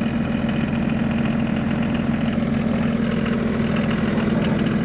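1985 John Deere 1050's three-cylinder diesel engine idling steadily right after a cold start.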